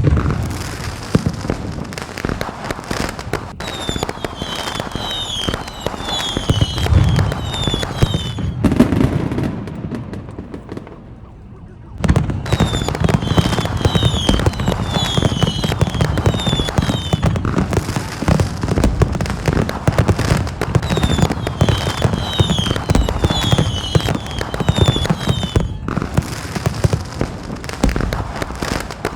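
A fireworks display: dense, continuous bangs and crackling from bursting shells, with a quieter lull that ends when the bursts come back loud about twelve seconds in. Groups of short, high, falling whistles repeat over the bursts several times.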